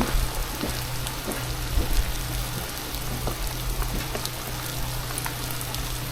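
Freezing rain pattering on ice-coated trees and ground: an even hiss with many scattered small ticks, over a low steady hum.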